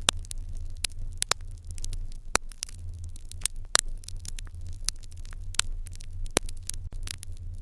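Wood fire in an irori hearth crackling, with frequent irregular sharp pops over a steady low rumble.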